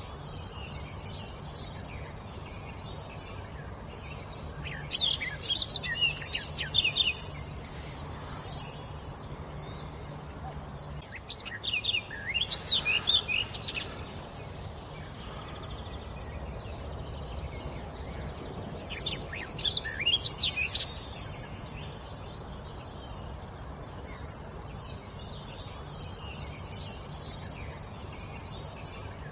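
A songbird singing three phrases of rapid, high notes, each lasting two to three seconds and several seconds apart, over steady background noise.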